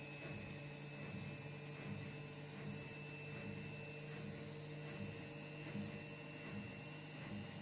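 Indesit washing machine running in its diagnostic test mode: a steady motor hum, pulsing slightly about twice a second, with a thin high-pitched whine over it.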